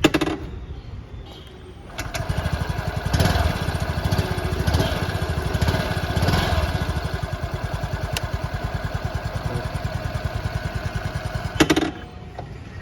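Yamaha RayZR 125 scooter's single-cylinder engine starting about two seconds in through its stock exhaust. It is revved in three short throttle blips, then idles steadily until it cuts off near the end. A short sharp knock sounds at the start and another just before the engine stops.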